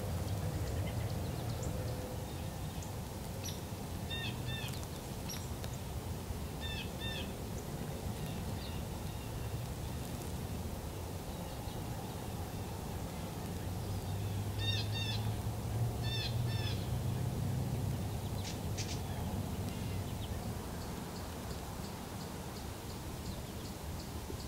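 Wild birds calling: short, hooked call notes in quick twos and threes, repeated a few times over a steady low background rumble.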